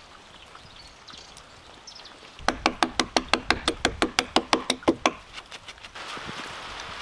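A fast, even run of about twenty ringing knocks, about eight a second, lasting some two and a half seconds, followed near the end by a steady hiss.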